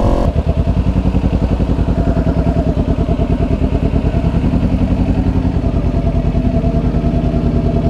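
Vehicle engine running steadily at low revs, with a fast, even exhaust pulsing.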